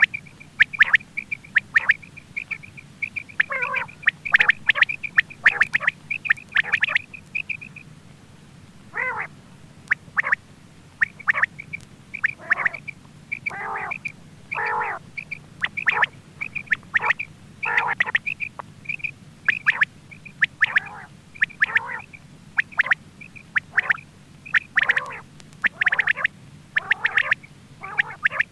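Quail calling over and over: quick runs of short, high, clipped notes, with lower, harsher calls in between, several a second throughout.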